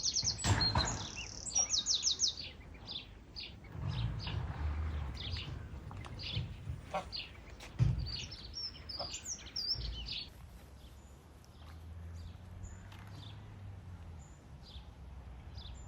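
Small birds chirping, with quick runs of short falling notes in the first two seconds and scattered high chirps after that.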